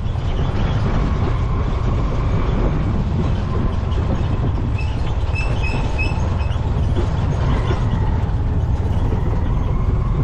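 Vehicle driving along a rough dirt road, heard from inside: a steady, loud low rumble of engine and road noise.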